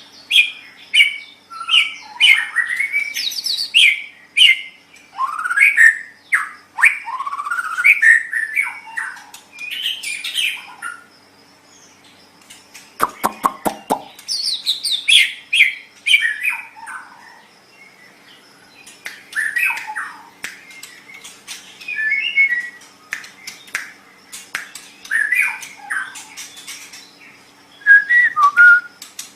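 White-rumped shama singing: rich, varied whistled and warbled phrases with rising and falling notes, delivered in bursts with short pauses. About 13 seconds in there is a brief low rattle.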